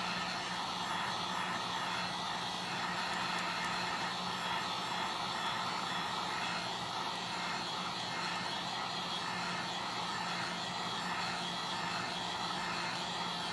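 Hot-air heat gun blowing steadily, warming the phone to soften the screen adhesive.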